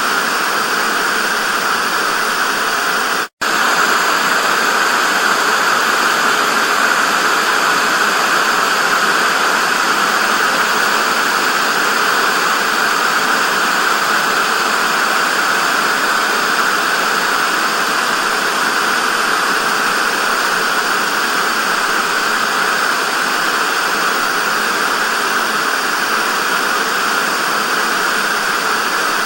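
TV static: a steady hiss of noise, strongest in the upper middle, that cuts out for a split second about three seconds in.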